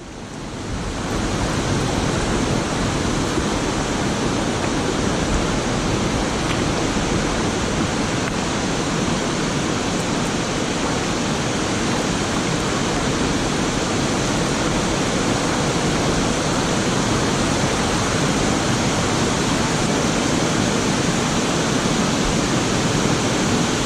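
Waterfall pouring steadily: a dense, even rush of falling water. It fades in over about the first second.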